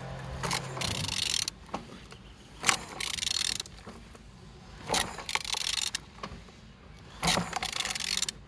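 Used engine being turned over by hand, a tool working the crankshaft in repeated strokes about every two seconds with ratcheting and mechanical grinding. The engine turns freely, a sign it is not seized.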